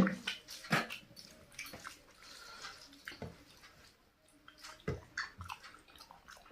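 Close-up eating sounds of a rice-and-curry meal: scattered wet squishes and smacks, with the food chewed and mixed by hand.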